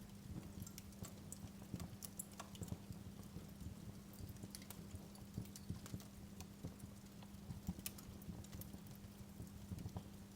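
Wood fire in a fireplace crackling: irregular sharp pops and snaps over a steady low hum.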